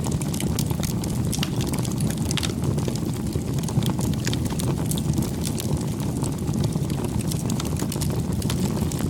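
Wood campfire burning: a steady low rush from the flames with many small, sharp crackles and pops.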